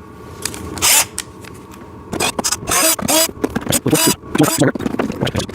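Plastic clicks and scrapes as the battery compartment cover of a toy ride-on backhoe is pried and worked open, coming quicker and denser after about two seconds.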